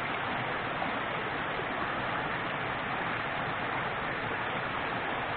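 A small forest river flowing: a steady, even rushing of water.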